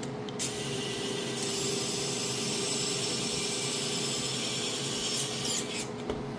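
Small electric motor of an RC helicopter's retractable landing gear whirring for about five seconds as it moves the gear leg under load, then stopping.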